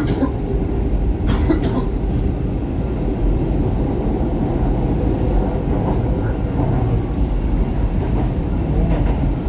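SEPTA Market-Frankford Line subway-elevated train heard from inside the car as it runs between stations: a steady low rumble of wheels on rail and running gear. A brief clatter comes about a second and a half in, and a fainter one near the middle.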